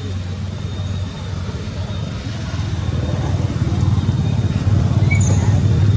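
A motorbike engine running, growing steadily louder.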